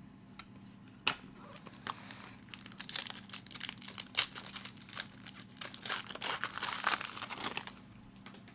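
Trading card pack wrapper being torn open and crinkled by hand, a run of irregular crackling and rustling that dies away near the end.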